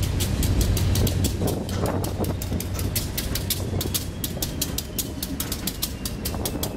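Freight cars, including flatcars and a tank car, rolling slowly past on steel wheels: a low rumble under a fast, even clicking.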